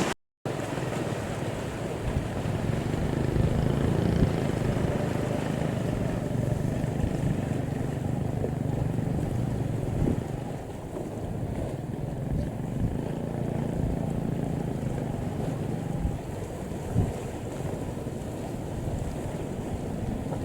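A fishing boat's engine running steadily as a low hum under wind on the microphone and water noise; the hum eases off about ten seconds in, and there is a short knock near the end.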